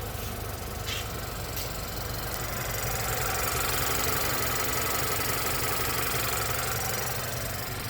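Car engine idling, with the ticking of its EVAP canister purge solenoid valve over the engine hum; the sound grows a little louder about three seconds in.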